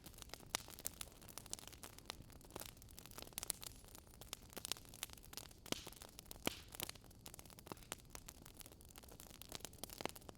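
Wood fire crackling: faint, irregular sharp pops and snaps, several a second, over a soft steady hiss.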